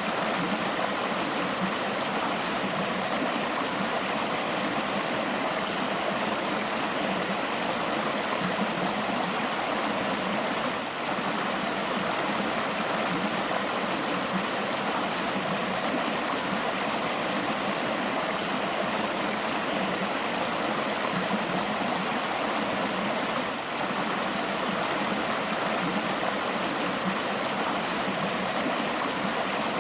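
River water flowing in a steady, even rush, with two brief small dips in level, one a little over a third of the way through and one near four-fifths.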